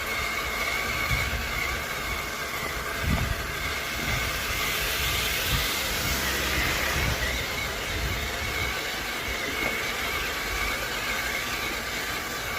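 1:10 Redcat Scout II RC truck's brushless 3300kv motor whining at a steady pitch with several high tones. Low rumbling runs underneath, and a hiss swells up around the middle.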